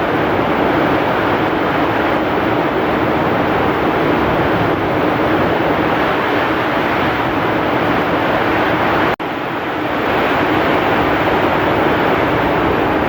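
Heavy rain and strong wind in a steady, dense rush. About nine seconds in the sound cuts out for an instant and swells back up over about a second.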